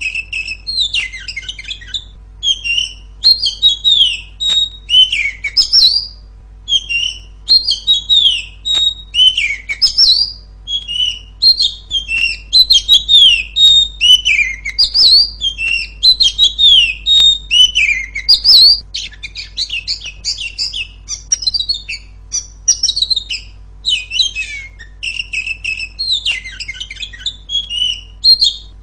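Female Oriental magpie-robin (kacer) singing a loud, unbroken run of quick chirps and whistled, gliding notes, with a faint steady hum underneath.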